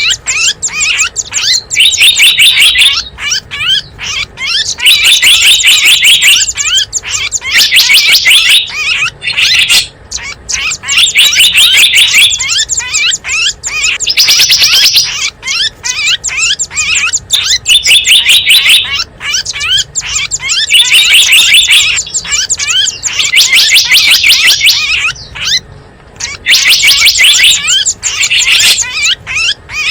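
Small songbirds chirping and twittering in a dense, high-pitched chatter, with loud stretches of rapid chirps recurring every two to three seconds. It is a bird-lure call recording of the kind played to draw wild small birds in.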